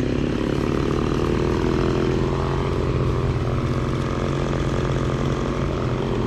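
Stihl MS170 two-stroke chainsaw running steadily off the throttle at a lower engine speed, between cuts.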